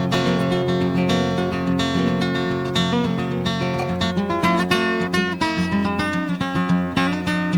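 Background music: acoustic guitar playing a continuous run of picked and strummed notes.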